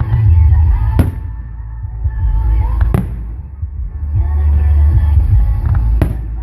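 Fireworks going off: a steady low rumble of booming shells, with sharp cracks about a second in, at three seconds and near six seconds.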